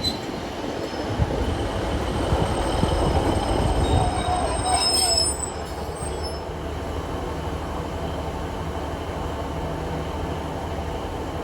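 Passenger train running along the rails with a steady rumble. Thin, high wheel squeal comes through about four to five seconds in, then the sound settles to an even, slightly quieter run.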